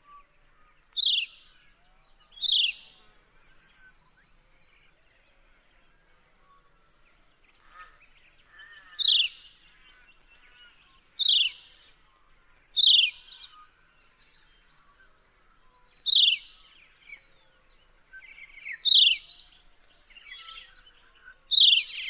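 Horsfield's bronze cuckoo calling: a loud, piercing whistle that slides downward, repeated about nine times at irregular gaps of one to several seconds. Fainter calls of other birds sound in the background.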